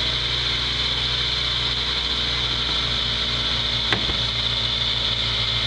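Off-road 4x4's engine idling steadily, with a single knock about four seconds in.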